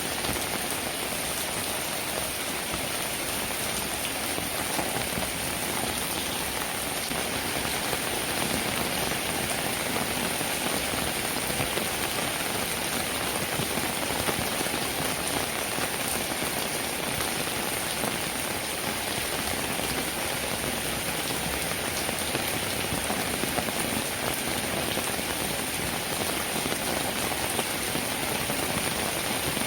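Steady rainfall: an even, unbroken hiss of many drops with no thunder or single loud strikes.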